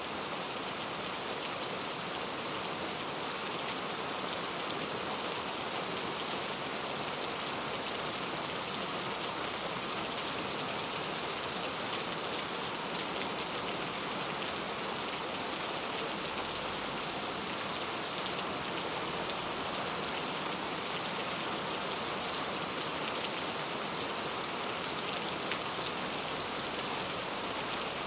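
Heavy rain falling steadily, a constant hiss with scattered drop ticks.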